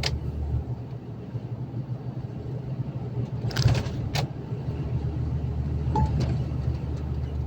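Steady low drone of a truck's engine and tyres heard inside the cab while driving, with a few sharp clicks about three and a half to four seconds in.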